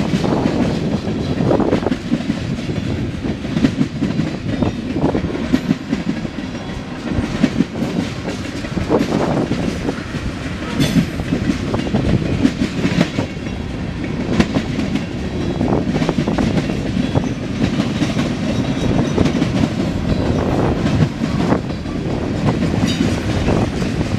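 Freight train cars rolling past: a steady rumble of steel wheels on rail with frequent clicks and clanks.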